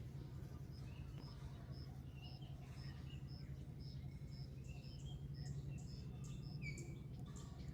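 A high, short chirp repeated very evenly about twice a second, with a few other faint chirps, over a steady low hum.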